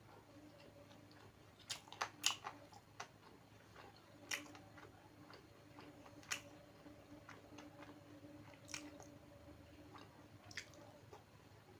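A person chewing a mouthful of food, with scattered sharp wet mouth clicks, over a faint steady hum.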